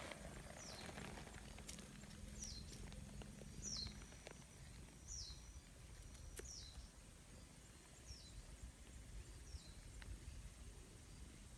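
Faint bird call: a short, high, falling note repeated evenly about every second and a half, with scattered soft clicks close by.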